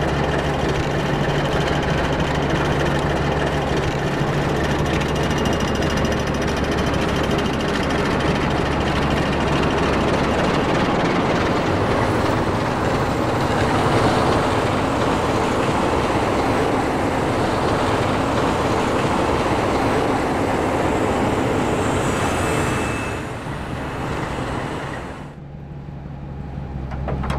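Locomotives of a rotary snowplow train passing close by: a loud, steady rumble of engines and wheels on the rails with a low engine hum beneath. It dies away near the end, leaving a quieter steady engine hum.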